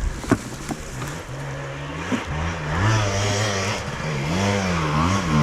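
Off-road motorcycle engine revving up and down, its pitch rising and falling over and over and getting louder a few seconds in, after a few sharp knocks in the first second.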